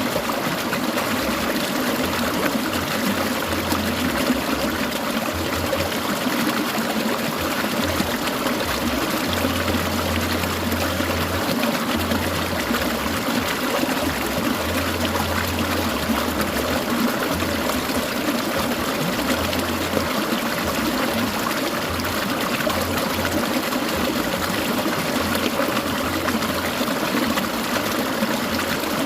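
Clear mountain stream trickling and babbling steadily over stones.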